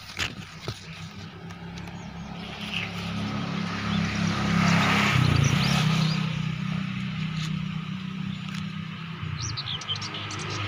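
Birds chirping outdoors over a steady low drone that grows louder toward the middle and then eases off.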